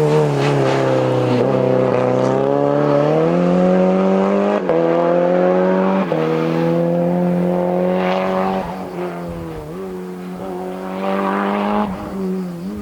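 Turbocharged 1.4-litre Fiat Uno Turbo four-cylinder in a Fiat Punto race prototype, driven hard. The engine note climbs in pitch over the first couple of seconds and holds high, then dips and picks up again several times in the second half as the throttle is lifted and reapplied.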